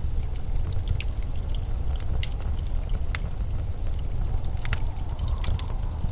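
Blizzard wind as a steady low rumble, with scattered sharp little ticks and crackles throughout.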